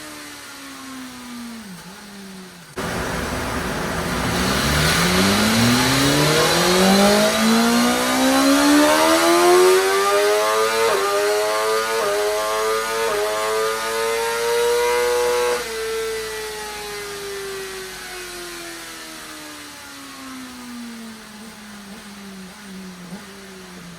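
2023 BMW M1000R's inline-four engine, on its stock exhaust, making a full-throttle dyno pull. The throttle snaps open about three seconds in and the revs climb steadily, with a few brief dips around the middle. The throttle is shut suddenly past the halfway point, and the engine and dyno roller wind down slowly with falling pitch.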